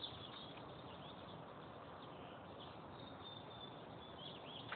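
Faint, scattered bird chirps over steady outdoor background hiss, with a small cluster of short chirps near the end.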